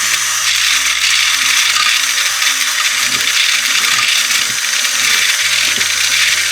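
Toy mixer's small motor running steadily with a high, buzzing whir.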